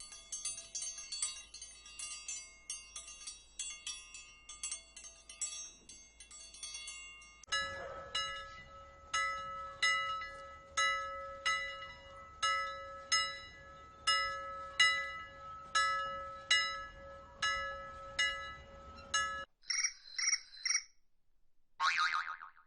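Electronic chime-like alert tones: a fast run of high tinkling notes, then a bell-like tone repeating steadily a bit more than once a second, then a few short chirps near the end.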